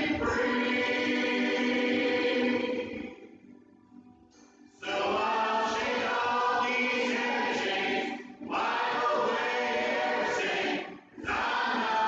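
Church choir singing a gospel song in long phrases, broken by short pauses, the longest a little over a second about three seconds in.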